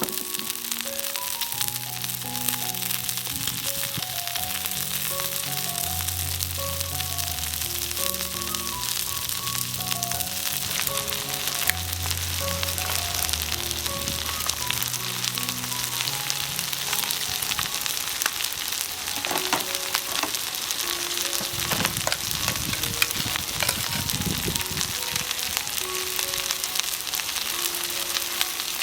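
Chicken sizzling on a charcoal shichirin grill, a steady hiss with small crackles and pops of dripping fat. Background music with a slow melody plays over the first two-thirds or so, and a few low rumbles come near the end.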